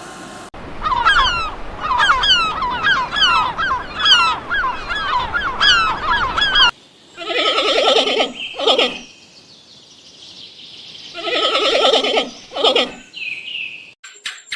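Poultry calling: a fast run of short, high chirps that fall in pitch, then two long harsh calls, each followed by a shorter one.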